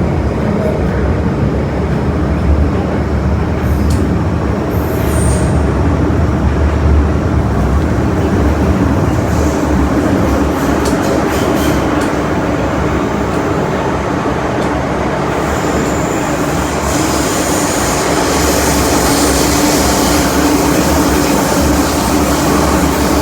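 Metro-Cammell M-Train electric multiple unit running, heard from inside the rear car: a steady rumble of wheels on track and running gear. A thin high whine joins about two-thirds of the way through.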